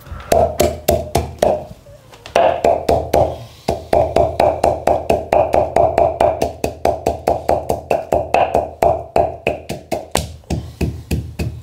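Pestle pounding in a som tam mortar, steady knocks about four a second, each with a hollow ringing tone.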